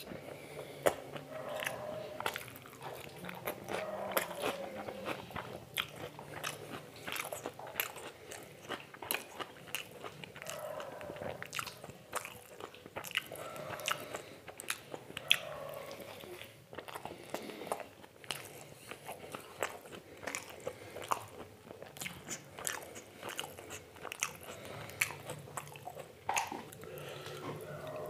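Close-miked eating: a person biting and chewing food, with many irregular sharp crunches and wet mouth clicks.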